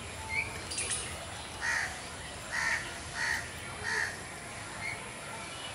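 A bird calling, a series of four calls spaced well under a second apart, over steady outdoor background noise.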